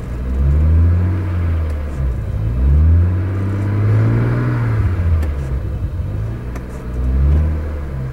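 1992 Acura Legend's 3.2-litre V6 being revved lightly in Park, rising from idle to about 2,000 rpm and falling back several times.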